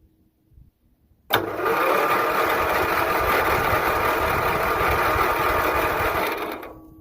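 Starter cranking the 1974 Montgomery Ward hydrostatic tractor's engine for about five seconds without it catching, then winding down near the end. The engine is flooded, with fuel pouring from the carburetor.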